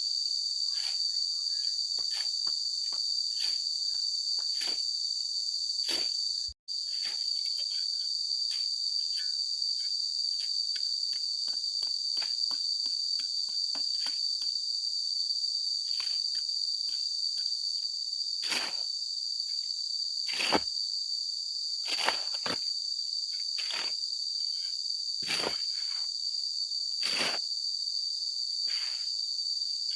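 Steady, high-pitched drone of an insect chorus. Over it comes a string of short knocks or taps about once a second, louder in the second half. The sound cuts out for an instant about six and a half seconds in.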